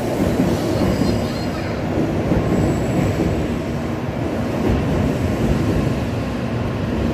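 Shinkansen bullet train moving slowly along a station platform: a steady, low rushing noise of the passing cars.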